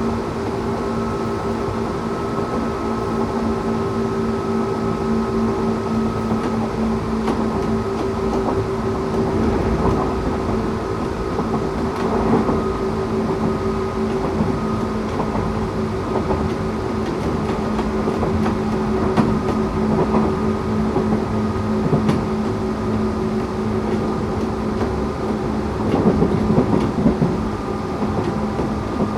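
Tokyu 8500 series electric train with Toyo-made traction motors running at a steady speed: a constant hum of even tones over wheel and track rumble, with a few knocks and clatters from the rails, the busiest near the end.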